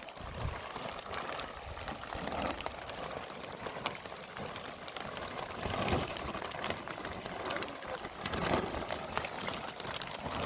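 Heavy rain falling steadily, with many small sharp drop ticks through it.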